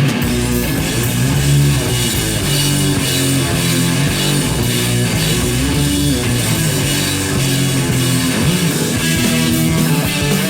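Hard rock music from a band: electric guitar and bass playing a riff over a drum kit, loud and steady.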